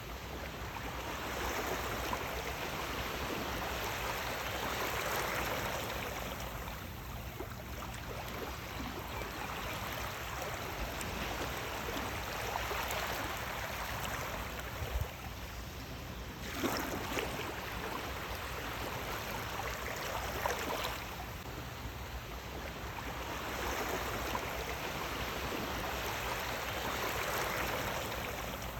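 Sea waves washing onto a shore, a continuous rush of water that swells and eases about every six to seven seconds.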